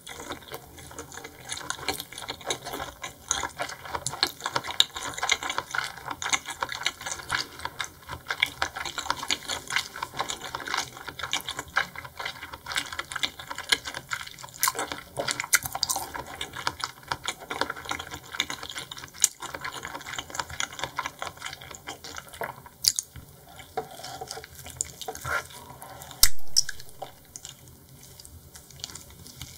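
Close-miked chewing of raw seafood: a steady run of wet clicks, squelches and smacks from the mouth, with one louder knock near the end.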